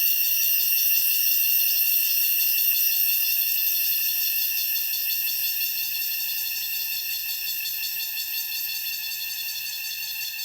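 Cicadas calling in chorus: a steady, high buzz with a fast pulsing texture, growing slightly quieter toward the end.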